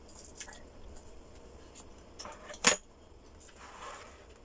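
Quiet eating sounds at a meal: scattered faint clicks and smacks, with one sharp click about two and a half seconds in.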